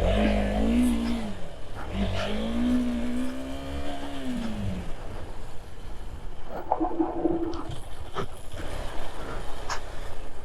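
Motorcycle engine revving on a dirt track, its pitch rising and falling in two pulls over the first five seconds, then running lower under scattered clicks and knocks.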